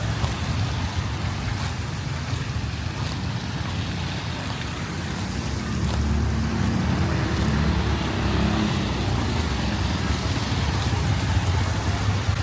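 Motor traffic moving through a flooded street: a low engine rumble over the wash of water. A vehicle draws closer and gets louder about halfway through.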